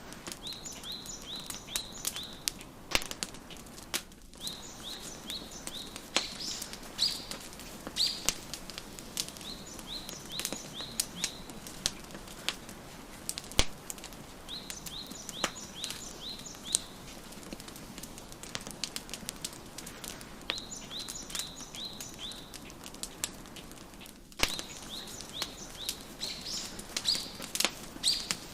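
Wood fire crackling with scattered sharp pops, while a songbird sings a phrase of quick, high chirping notes that comes back every four to five seconds.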